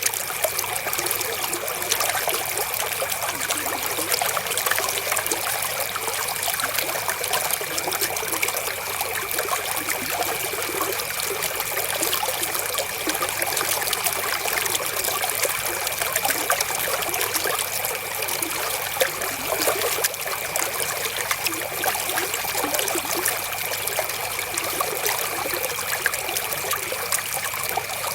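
Flowing river water trickling and splashing steadily, with a thin steady high tone running underneath.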